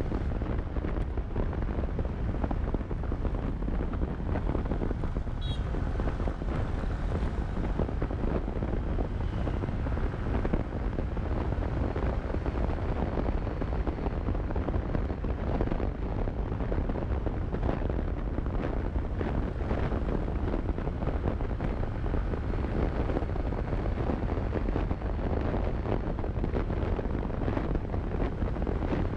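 Steady wind rumble buffeting the microphone of a camera on a moving motorcycle, with the motorcycle running underneath it.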